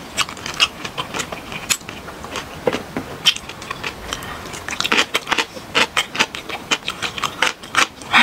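Close-up eating sounds: chewing with wet mouth clicks and smacks, a few each second at an uneven pace.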